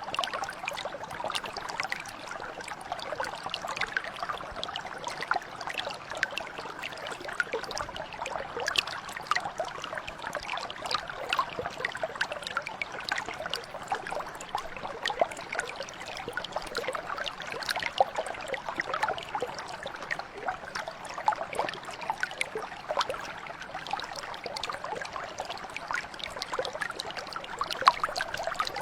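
Brook water flowing steadily over stones, babbling with many small splashes and trickles.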